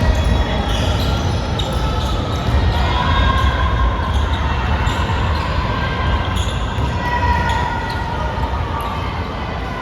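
Basketball game play in a gym: a basketball bouncing on the court amid a steady din of footsteps, short sharp knocks and indistinct voices.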